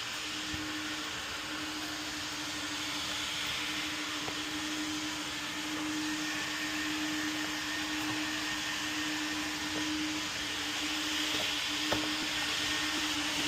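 A machine running steadily: an even hiss with a constant hum, and a single small click near the end.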